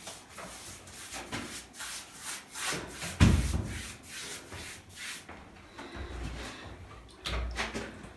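Repeated rough rubbing strokes, a few a second, with a heavy thump about three seconds in and duller low thuds near the end.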